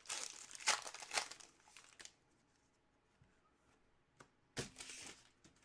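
Trading-card pack wrapper crinkling and tearing for about two seconds, then a pause and another short rustle near the end.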